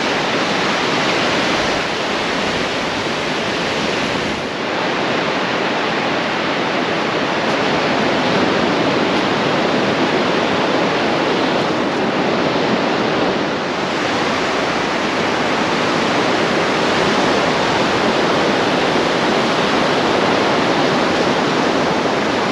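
Ocean surf breaking on a beach, a continuous loud wash that eases briefly twice as the waves rise and fall.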